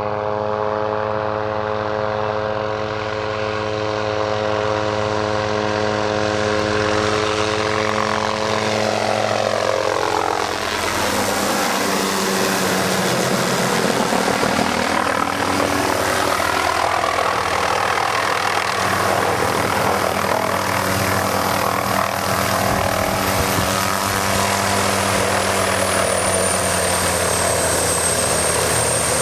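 Helicopter engine and rotor running through a fast approach to a landing; the steady engine tone shifts and turns rougher about ten seconds in, and a high whine dips slightly in pitch near the end.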